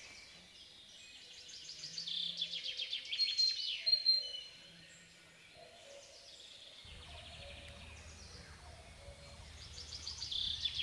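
A songbird singing: phrases of rapid, repeated high notes with quick downward sweeps, one about two seconds in and another starting near the end.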